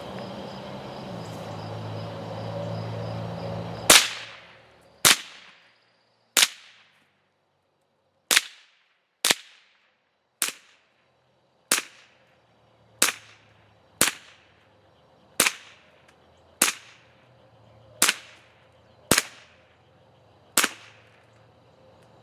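A .22 rifle firing fourteen single shots at an uneven pace of roughly one a second, each a sharp crack with a short ring-out. Before the first shot there is a steady low hum.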